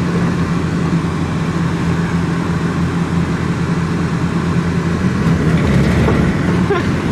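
Truck driving along: steady engine and road drone.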